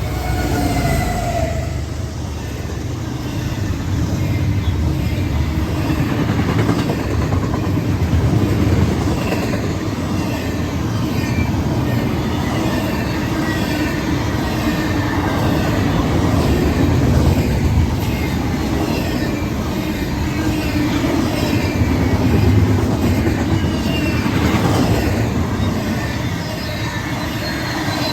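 Train rolling past: a steady rumble of wheels on the rails, with faint wheel squeal over it.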